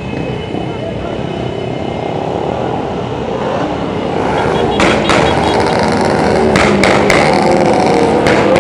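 A group of motorcycles riding past, their engines growing louder about halfway through, with several sharp cracks in the second half.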